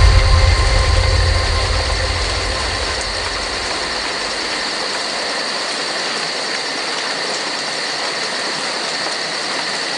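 Steady rain falling, an even hiss, with a low rumble at the start that fades away over the first few seconds.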